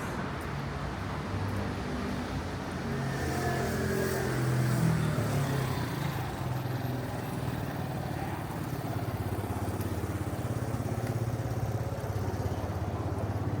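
Street traffic: a motor vehicle's engine passing close, loudest about four to five seconds in, then an engine running with a fast, even pulse.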